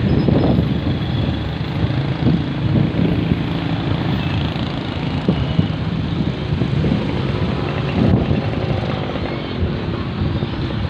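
A large vehicle's engine running loudly with road traffic noise, a steady low hum with a few short knocks.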